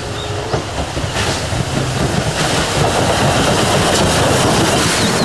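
Steam locomotive hauling a passenger train past at close range: a dense, steady rush of exhaust and clattering wheels on rails that grows louder over the first few seconds as it comes nearer.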